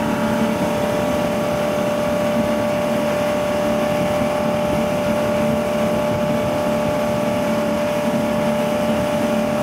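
Inboard ski tow boat's engine running at a steady pull, with a constant high whine over the drone and wash of the hull, as it tows a barefoot skier.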